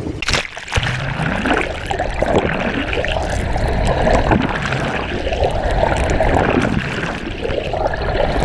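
Seawater rushing and gurgling loudly around a person being dragged through the water behind a moving sailboat.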